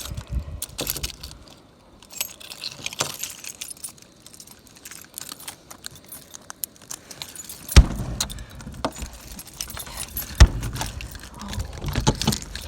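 Small metal objects jingling and clinking, with two sharp knocks, about eight and ten and a half seconds in.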